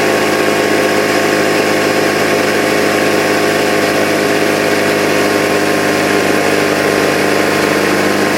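Porter-Cable CPFAC2600P pancake air compressor running steadily under power on its test run, its pump building tank pressure after the gasket on its discharge tube was replaced.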